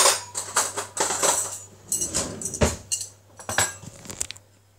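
Metal cutlery clinking and scraping against a plate and pan as food is served, a run of irregular short clatters that dies away near the end.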